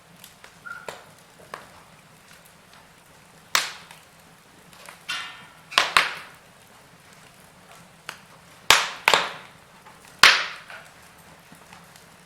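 Wood fire burning in a fireplace: irregular sharp crackles and pops from the burning logs, about half a dozen loud ones and several smaller, over a faint steady background.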